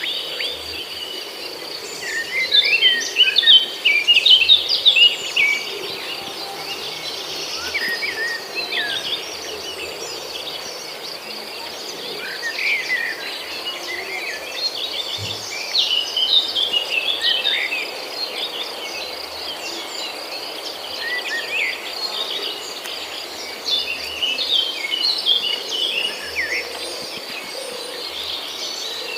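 Small aviary birds chirping and twittering in quick overlapping bursts, busiest in the first few seconds, over a steady high-pitched buzz.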